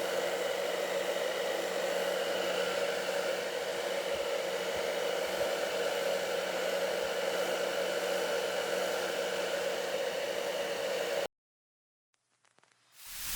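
A small electric motor running with a steady whir and hiss, cutting off abruptly near the end.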